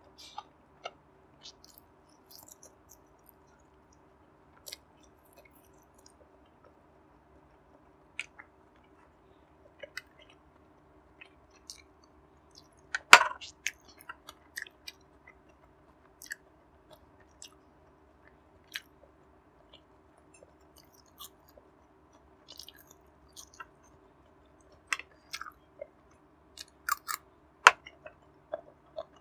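Close-miked chewing of barbecue pork belly (liempo): soft wet mouth sounds and scattered small clicks, with one sharp, louder click about thirteen seconds in.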